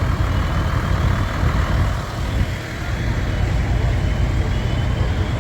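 Large truck engine running steadily with a low rumble, amid street noise.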